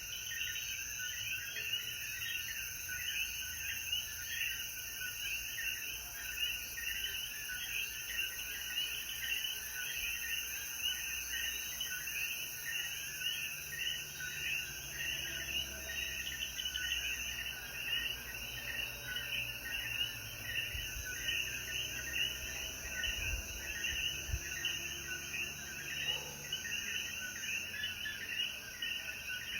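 Dense night chorus of Puerto Rican coquí frogs, many overlapping short calls repeating steadily without a break, over a steady high hiss.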